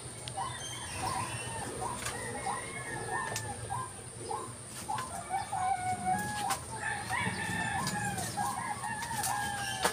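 Birds calling: a steady run of short repeated calls, about two or three a second, with longer drawn-out calls in the second half and a few sharp clicks.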